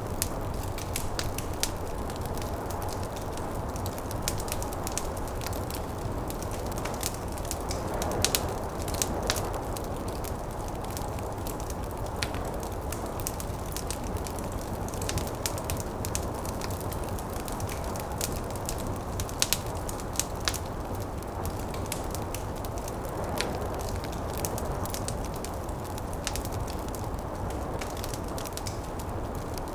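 Wood fire in a fireplace crackling, with irregular sharp pops and snaps, over a steady low whoosh of snowstorm wind that swells a little twice.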